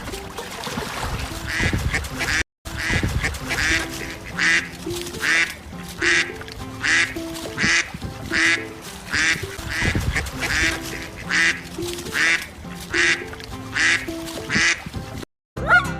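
Duck quacking in a steady run of short quacks, a little more than one a second, over background music.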